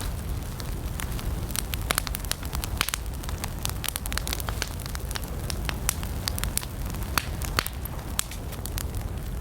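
Wood campfire burning and crackling: irregular sharp pops and snaps over a steady low rumble of the flames.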